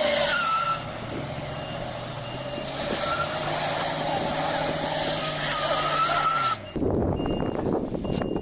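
A heavy vehicle's engine running, with a whine and a reversing alarm giving short high beeps. About two-thirds of the way through, the sound cuts abruptly to a noisier rumble, and the beeping carries on.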